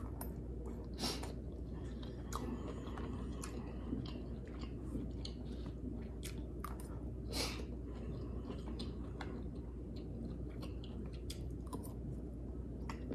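A person chewing a mouthful of broccoli close to the microphone, with scattered small clicks and smacks over a low steady hum.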